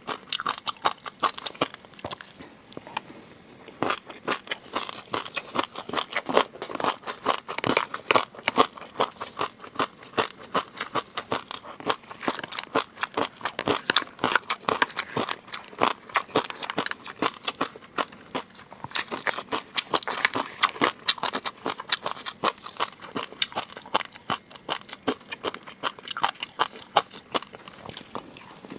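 Close-miked eating of seafood: a dense, continuous run of crunching and chewing clicks as the food is bitten and chewed.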